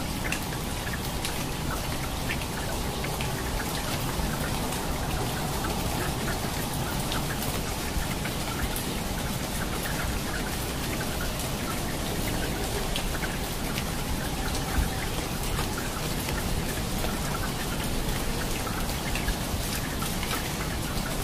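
Steady rain falling, with many close drops striking as separate ticks over an even hiss.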